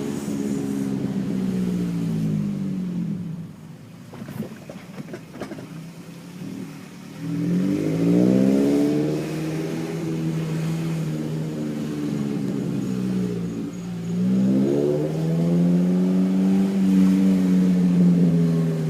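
Scion tC's four-cylinder engine running through a new aftermarket exhaust while the car is driven: the exhaust note falls away and goes quieter for a few seconds, then climbs in pitch from about seven seconds in, dips briefly about fourteen seconds in, and climbs again to a steady, louder note near the end.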